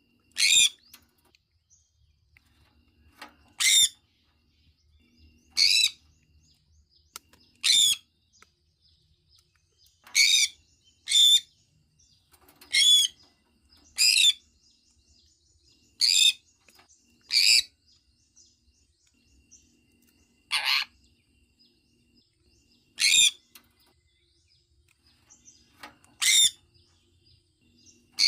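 Sun conure calling: about thirteen loud, short, high-pitched chirps, one every one to three seconds.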